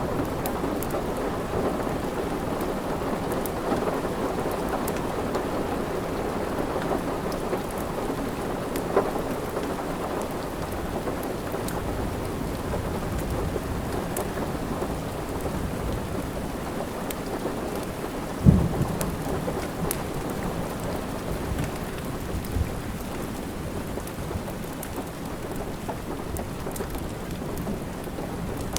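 Steady rain, with the small scattered pops of a crackling wood fire and one sharp low thump about eighteen seconds in.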